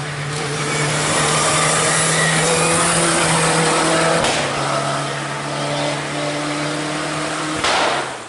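Fire extinguisher discharging onto a burning rally car: a loud, steady hiss with a low steady hum beneath. Near the end the hiss swells briefly, then dies away.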